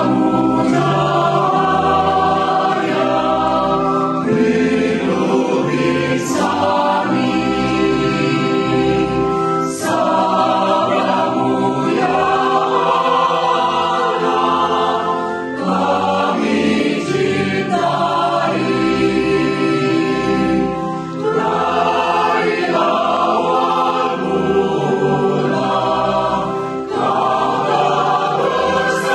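Choir singing a hymn in held chords that change every few seconds.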